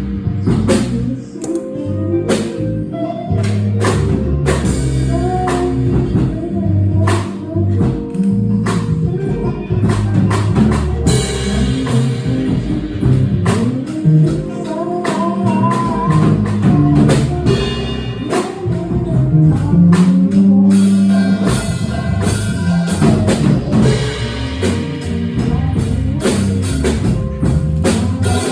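Live jazz band playing: a drum kit with frequent cymbal and drum hits and a bass line, with a melody line over them.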